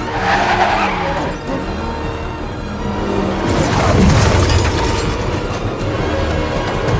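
Action-film soundtrack mix: a music score over cars skidding with squealing tyres and running engines, with a swell of crashing noise about four seconds in.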